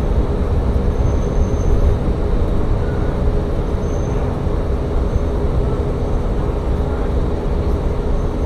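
Tsugaru Railway diesel railcar running between stations: a steady low drone of engine and wheels on the rails.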